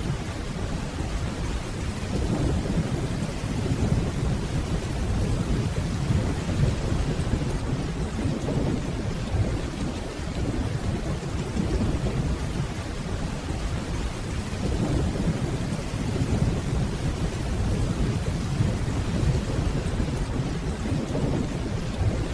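Steady rainfall with low, deep rolling thunder rumbling underneath, swelling and easing several times without any sharp clap.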